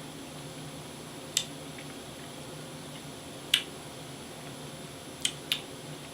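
Lips and tongue smacking while tasting a soda: four short, sharp clicks, the last two close together, over a low steady room hum.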